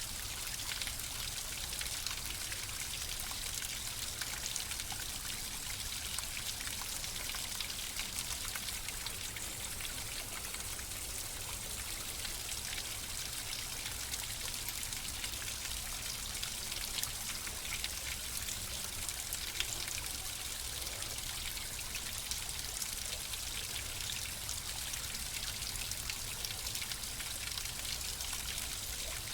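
Flowing water: a steady trickling, rushing stream full of small splashes and drips, unchanging throughout.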